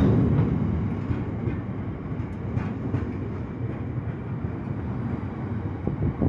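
Heavy freight train of hopper wagons rolling past close by: a steady rumble of wheels on rail with a few faint clicks.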